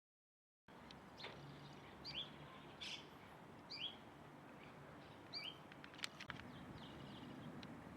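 A small bird calling in a city: a short rising call repeated three times, about a second and a half apart, with a few sharp chips, over a low steady background rumble. The sound cuts in after a brief silence at the start.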